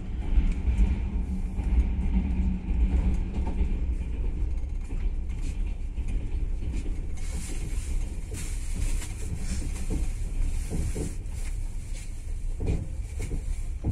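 Inside a moving passenger train carriage: the steady low rumble of the running train, with scattered clicks and rattles from the wheels and carriage in the second half.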